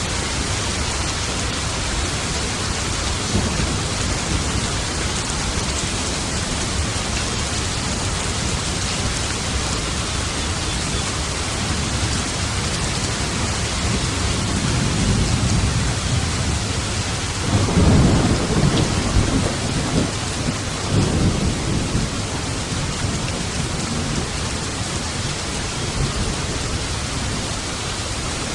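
Steady heavy rain with thunder rumbling low beneath it; the rumble swells through the middle, with its loudest rolls about 18 and 21 seconds in.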